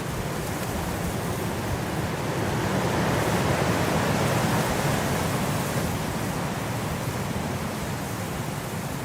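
Blizzard wind blowing as a steady rushing noise, swelling in a gust near the middle and then easing off.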